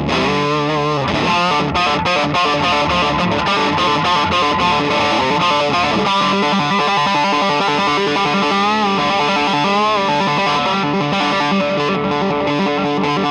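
Electric guitar with an overdriven tone played through a Songbird Redtail amplifier: a continuous run of chords and single notes, with bent, wavering lead notes about two-thirds of the way through.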